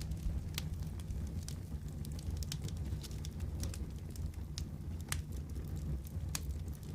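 Wood fire crackling in a fireplace: a steady low rumble of flame under frequent, irregular sharp pops and snaps.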